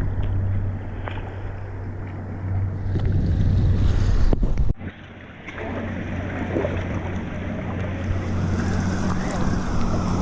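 Wind buffeting the microphone over water and waves sloshing around a kayak at sea, with a steady low rumble. The sound dips briefly about halfway through and then carries on.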